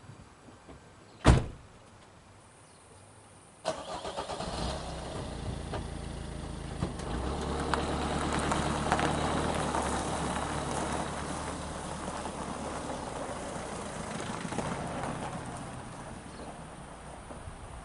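A car door shuts with a single sharp bang about a second in; a couple of seconds later the car's engine starts and keeps running steadily, a little louder after a few seconds.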